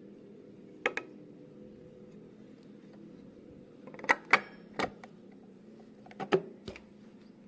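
Sharp metallic clicks and clinks of hand tools and small engine parts being handled, in three short clusters: a pair about a second in, three around four to five seconds, and three more after six seconds, over a faint steady hum.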